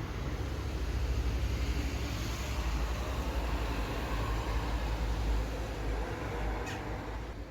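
Steady low rumble with a light hiss over it, a background noise like passing traffic; one faint tick about seven seconds in.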